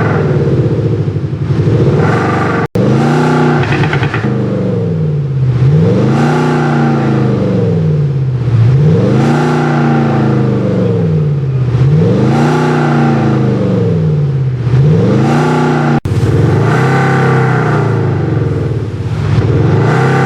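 Jaguar XE diesel's exhaust, fitted with an active sound system, revved up and let fall again over and over, about once every three seconds.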